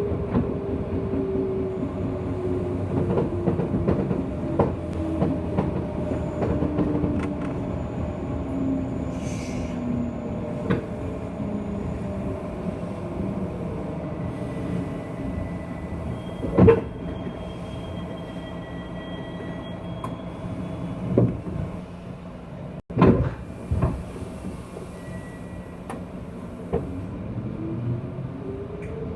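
JR West 201-series electric train heard from inside a motor car while running, with a motor whine falling in pitch as it slows. Several sharp knocks from the wheels and track come in the middle, and a rising whine near the end as it powers up again.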